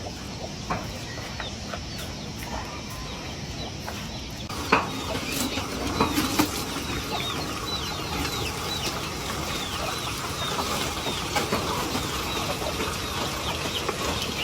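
Chicks peeping: a run of quick, high, falling chirps starts about five seconds in, just after a sharp knock, over a steady background hiss.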